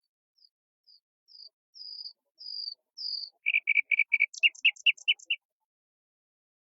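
A songbird singing one phrase: about eight slurred, whistled notes, each a little longer and louder than the last, then a quick run of about ten loud, sharp, lower notes that stops abruptly past the middle.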